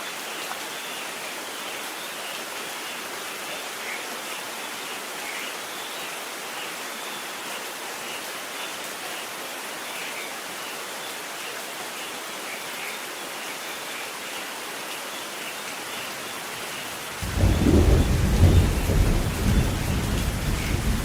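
Steady rain falling. About 17 seconds in, thunder breaks in suddenly and keeps rumbling loudly over the rain.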